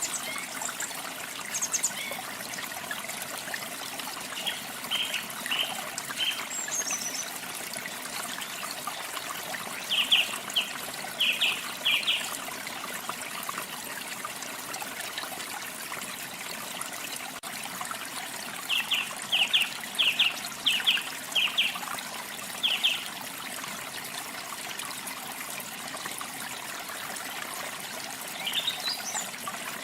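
Steady rush of falling, trickling water, with birds singing over it in short runs of quick chirps, three or four notes at a time and a longer run past the middle, plus a few thin high whistles.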